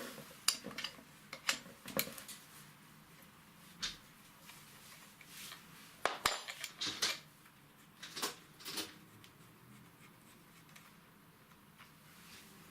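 Spanners clinking and clattering against the nuts and metal housing of a truck starter motor as its terminal bus bar is unbolted: scattered sharp metallic taps, a quick cluster about six to seven seconds in, then quiet.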